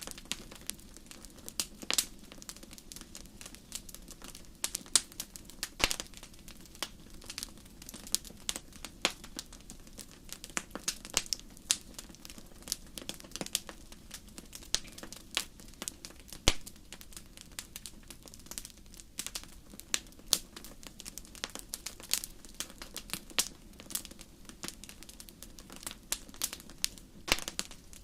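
Wood fire crackling in a fireplace: irregular sharp pops and snaps, many a second, over a steady low background of the burning fire.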